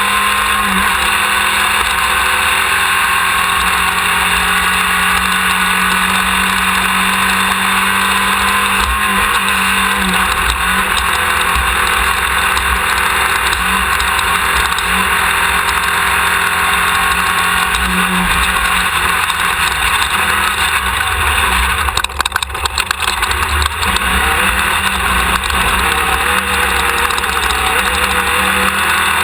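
Off-road race car's engine running hard at speed, recorded onboard, with a steady wash of driving noise. About three-quarters of the way through comes a brief rough patch of rapid knocks.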